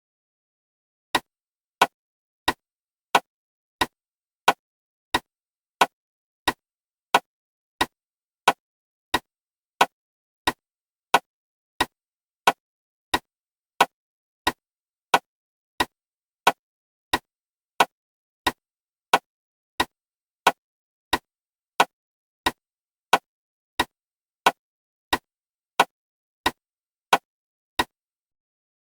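Clock ticking: sharp, evenly spaced ticks, about one and a half a second. They start about a second in and stop shortly before the end.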